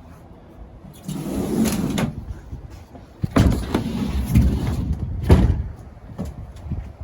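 Tires on rims being unloaded from a vehicle: a scraping slide about a second in, then several heavy thumps.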